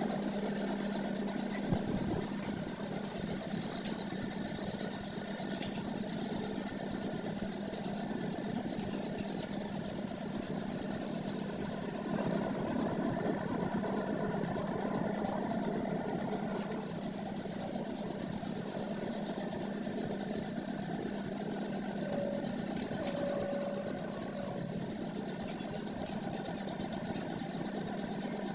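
A motor running steadily with a low, even hum, a little louder for a few seconds around the middle.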